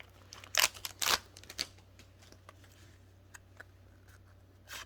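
A few short crinkles and clicks of Pokémon booster pack wrappers and cards being handled, the loudest about half a second and a second in, another near the end, over a low steady hum.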